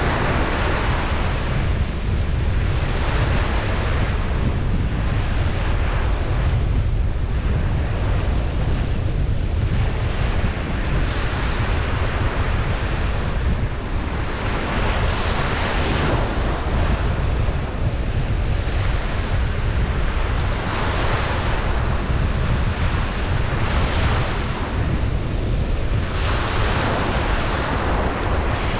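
Ocean surf breaking and washing up a beach, swelling every few seconds over a steady low rumble.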